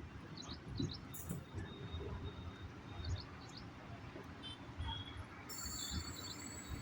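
Faint bird chirps, short quick notes, over a low rumble. About five and a half seconds in, a steady high whine starts and holds.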